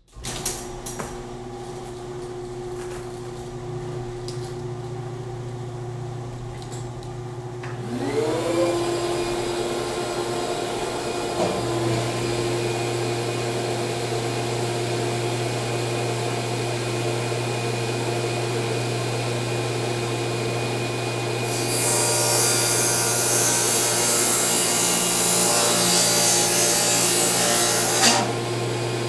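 A motor hum starts abruptly. About 8 s in, a Delta table saw starts up, its whine rising and levelling off at full speed. From about 22 to 28 s the blade cuts through plywood, louder and hissier, then the saw goes back to spinning free.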